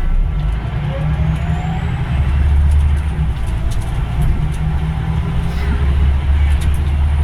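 Scania double-decker bus engine pulling under load, a heavy low drone that grows louder about two seconds in, with a faint whine rising in pitch as the bus gathers speed.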